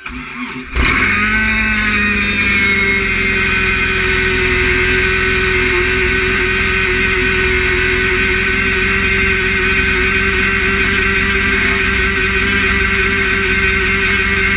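Engine revving up about a second in, then running steadily at high revs.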